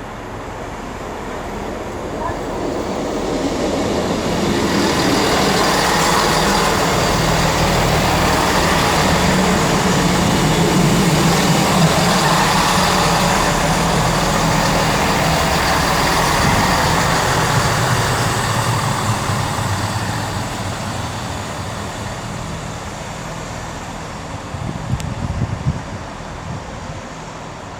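Two coupled Class 158 diesel multiple units arriving: engine drone and wheels on the rails build up over the first few seconds, stay loud for a long stretch, then die away as the train slows near the end.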